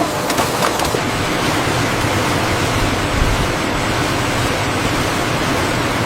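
Steady rushing noise of factory machinery, with a few light clicks in the first second.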